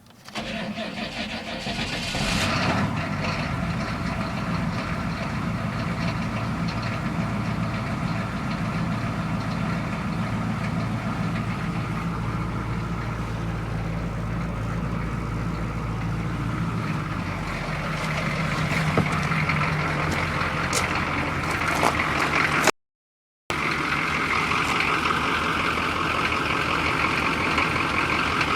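1986 K10 pickup's 6.2-litre diesel V8 cranking on weak batteries and starting from cold, then idling steadily. The sound cuts out briefly for under a second near the end.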